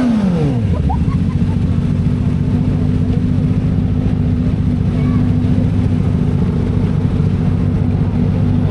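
Kawasaki Ninja ZX-4RR's inline-four engine through an SC Project exhaust, its revs falling away from a throttle blip in the first second, then running steadily at low revs.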